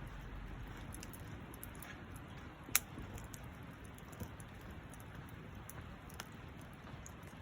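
Wood campfire crackling quietly, with scattered small clicks and one sharp pop a little under three seconds in.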